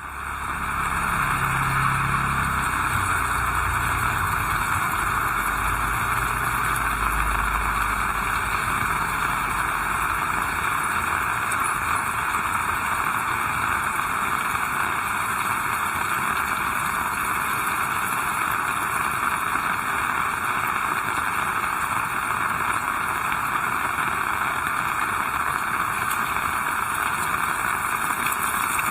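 Heavy rain falling steadily, an even hiss that does not let up. For the first several seconds a low rumble, like a motor vehicle passing, runs underneath it and then fades.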